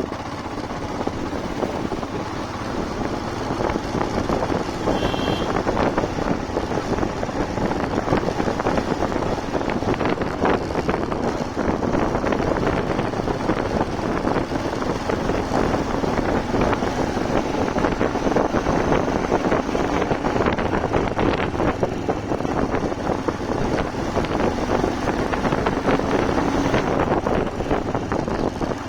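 Motorcycle on the move: wind rushing over the microphone over the steady running of the engine and tyres on the road. A short high tone, such as a horn, sounds briefly about five seconds in.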